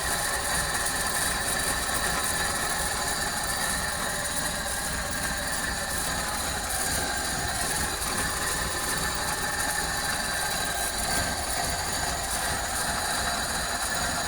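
2004 Suzuki Karimun's small four-cylinder petrol engine idling steadily with the bonnet open, a smooth idle without rough or noisy sounds.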